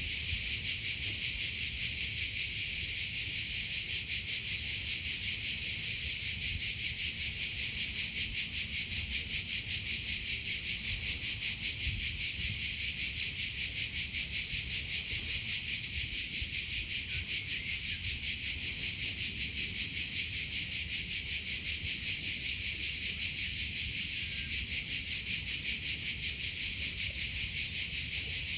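Crickets chirping: a continuous high-pitched trill, pulsing rapidly and without pause.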